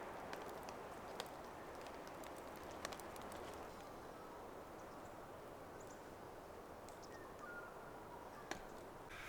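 Light rain falling: a steady soft hiss with scattered sharp ticks of single drops landing close by.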